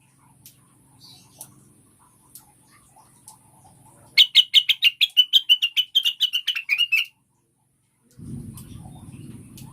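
Female cucak wilis (greater green leafbird) calling: about four seconds in, a loud rapid run of sharp notes, about five a second, for roughly three seconds, dropping slightly in pitch at the end. Near the end a low rumbling noise comes in.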